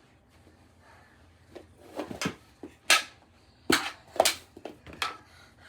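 Knee hockey sticks and ball clacking during play: about six sharp knocks, starting about two seconds in, as the ball is hit and checked.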